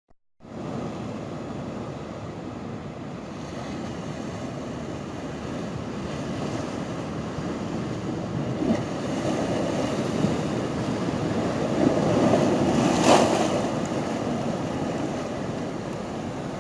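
Sea surf washing and surging, with wind. It swells to a louder wave about three-quarters of the way in, with a brief sharp slap at its loudest moment, then eases off.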